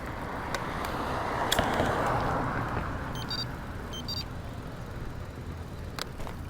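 A car passing by: tyre and road noise that swells to a peak about two seconds in and fades away, with a few faint clicks and two brief high-pitched chirps midway.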